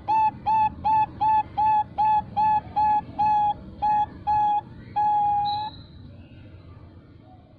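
Female Bangkok-type zebra dove (perkutut) cooing: a rapid run of short, clear notes, about three a second, ending in one longer drawn-out note about five seconds in. This long-ending call is the type prized as a lure for calling males.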